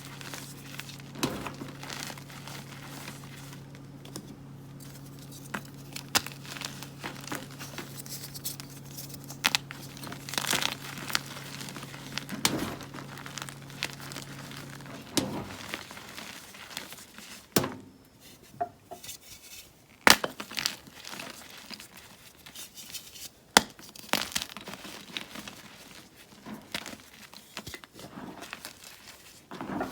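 Gym chalk blocks being crushed and crumbled by hand: a run of irregular crunches and crumbly crackles. A low steady hum underneath stops about halfway through.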